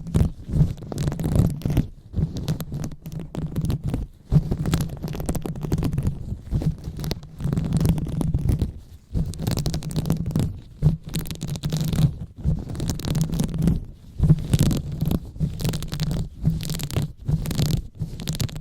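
Hands rubbing and massaging directly on the microphone: a muffled, low rumbling rustle in irregular strokes with brief pauses between them.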